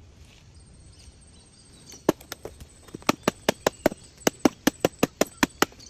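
Quick, evenly spaced blows of a tool on bamboo, a few at first from about two seconds in, then about five sharp strikes a second.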